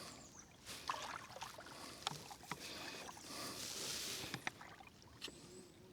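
Kayak paddling: paddle blades dipping and splashing in the river water in swells of swishing, with a few light clicks.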